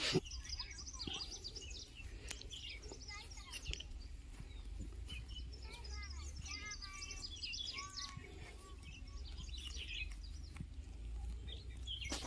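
Small birds chirping and calling throughout, over a steady low rumble of wind on the microphone.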